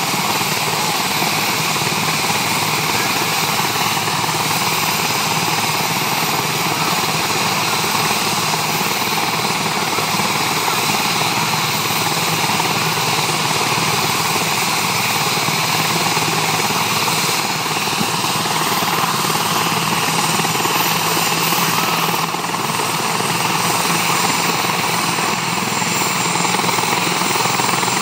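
National Guard helicopter's engine and rotor running steadily as it takes off.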